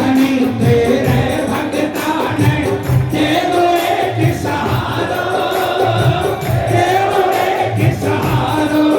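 Live Hindu devotional bhajan: a voice singing a melody over a steady drum beat, about two beats a second.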